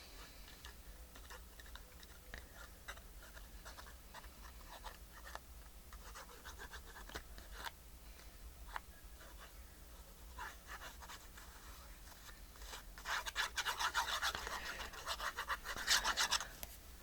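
Paper being handled and rubbed, with faint rustles and small taps, then a run of quick scratchy rubbing strokes near the end, the sound of a glued piece being pressed and smoothed down by hand.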